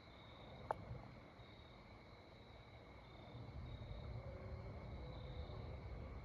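Crickets chirring steadily, with a faint low rumble that grows from about halfway through and a single small click about a second in.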